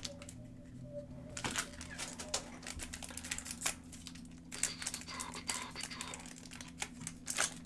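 Trading card packs and cards being handled: plastic wrappers crinkling and tearing, with irregular clicks and rustles.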